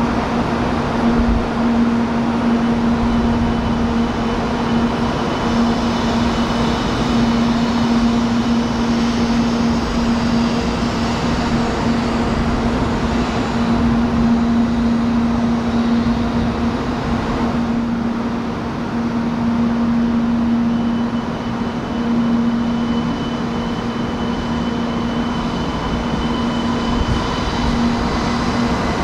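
700 Series Shinkansen train at the station, a steady rumble with a constant low hum, no rise and fall of a train passing at speed.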